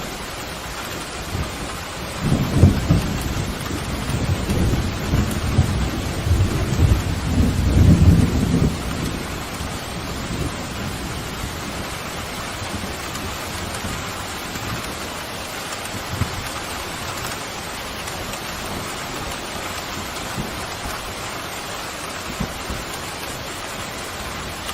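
Steady heavy rain with a long roll of thunder rumbling from about two seconds in to about nine seconds, then fading back to the rain alone.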